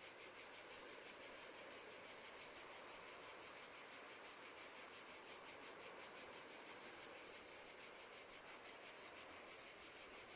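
Crickets chirping faintly in a fast, even pulse that stays steady throughout, as a nature-sound background.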